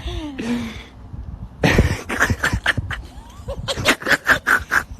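A person laughing in breathy, rapid bursts, the run of bursts quickest in the second half.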